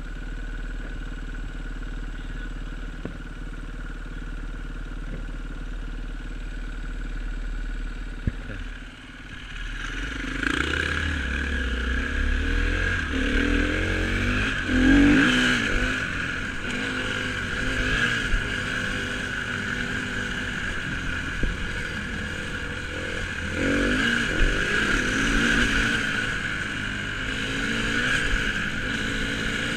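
Dirt bike engine running steadily at low revs, then about nine seconds in it pulls away and revs up and down repeatedly as the bike rides.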